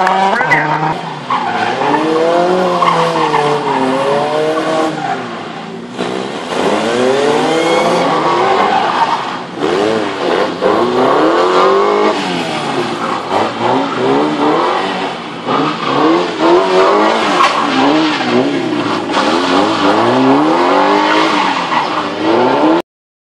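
Performance car engines revving up and down again and again as the cars are thrown about under power, with tyres squealing as they skid. The sound cuts off abruptly near the end.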